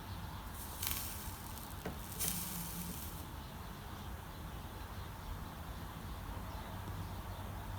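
Hot soldering iron sizzling on flux and solder twice, a short hiss and then a longer one, while tacking a wire onto the lead came. A low steady hum runs underneath.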